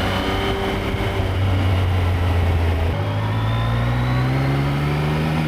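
Yamaha XSR900's CP3 three-cylinder engine running on the road at a steady pitch, then stepping up in pitch about three seconds in and climbing steadily as the bike pulls harder.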